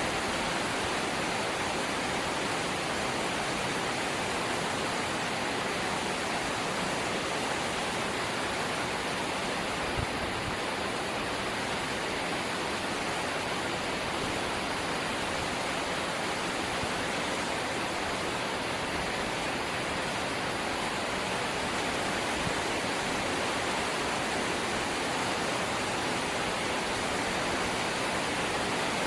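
Light rain falling steadily, heard as an even hiss. There is one brief tap about ten seconds in.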